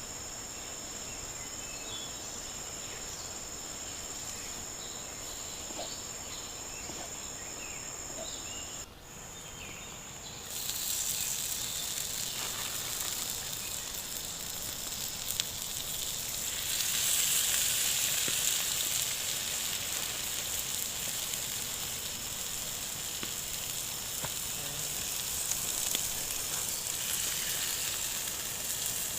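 Crickets trilling steadily for the first nine seconds or so. Then, after a brief dip, food starts sizzling on a hot cooking stone, a loud hiss that swells a little past the middle.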